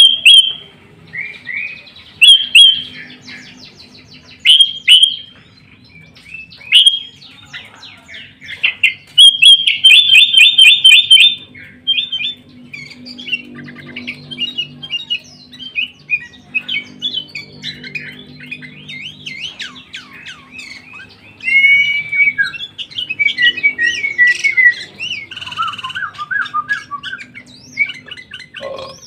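Sooty-headed bulbul (kutilang) in loud, full song. It gives short whistled phrases about every two seconds, then a rapid repeated trill from about nine to eleven seconds in, then a stretch of busy, varied chattering phrases.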